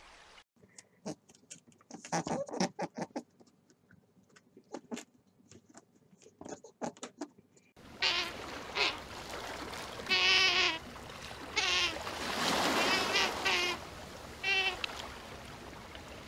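A run of quick, sharp clicks and crackles, then from about halfway a sea otter's high, wavering squealing calls, several in a row, over steady water noise.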